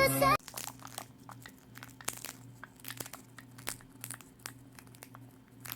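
Faint, irregular crinkling and small clicks over a low steady hum, just after louder speech and music cut off suddenly at the start.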